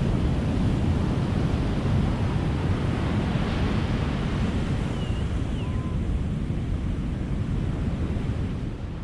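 Ocean surf: a steady wash of breaking waves, easing slightly near the end.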